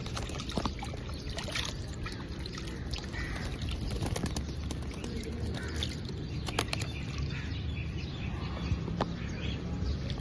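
A parrot bathing: water splashing, with many sharp little clicks and splashes and a few short chirps.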